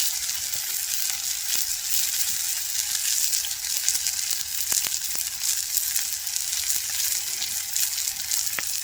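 A large steak sizzling steadily in a frying pan over a campfire, with faint scattered pops. The sizzle is not at its ideal strength because the pan is overcrowded.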